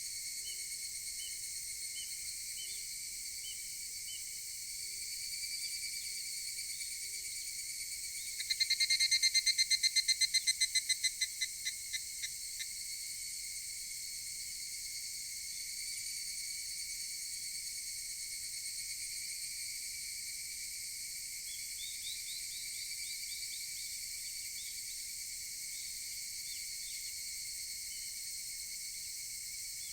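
Higurashi (evening cicadas) calling over a steady high-pitched insect drone. About eight seconds in, one loud close call starts as a fast rattle of pulses, then slows into separate beats and fades out over about four seconds. A fainter, more distant call follows past the two-thirds mark.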